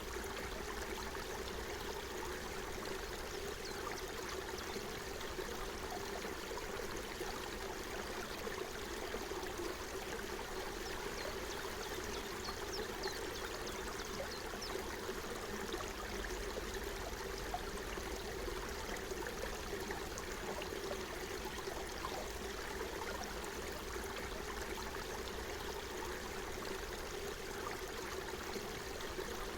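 Forest stream running steadily, a continuous babbling and trickling of water over stones.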